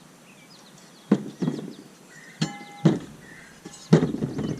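Metal parts of a Leslie S-3L air horn knocking and clunking as they are handled and set down, about five knocks; one, about halfway through, leaves a short ringing metallic note. Birds chirp faintly in the background.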